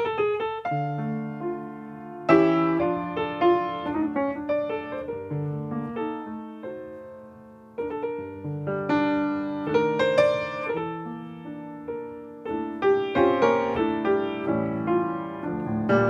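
Piano playing a slow hymn in struck chords that ring and fade, with new phrases entering about two, eight and twelve and a half seconds in.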